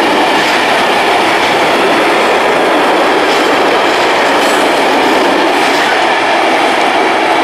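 A long freight train of covered hopper wagons rolling past close by: the loud, steady running noise of steel wheels on rail, with a few faint clicks.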